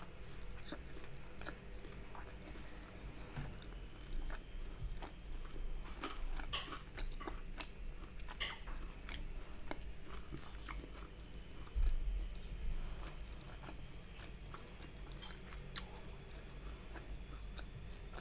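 Close-miked eating of Chinese takeaway food: chewing and crunching with many small wet mouth clicks, and a dull thump about twelve seconds in.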